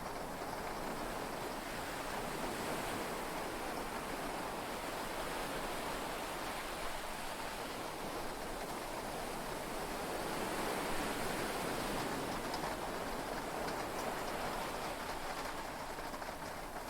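Heavy rain and sea waves heard from inside a yacht's cabin: a steady wash of noise that swells and eases slowly.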